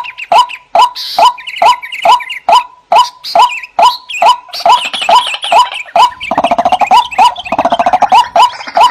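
White-breasted waterhen (ruak-ruak) calling: a steady run of short, downward-curving notes, about three a second, with higher chattering calls over them. A rapid buzzing trill joins in about six seconds in.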